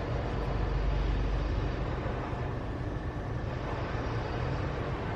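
Automatic car wash machinery running, heard from inside the car's cabin: a steady rushing noise over a low rumble.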